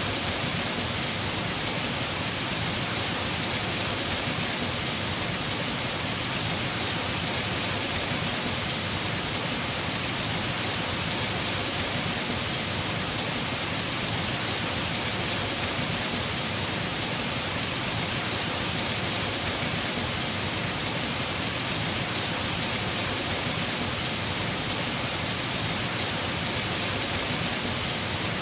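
Heavy rain falling steadily on a house roof, a continuous even hiss with no breaks or thunder claps.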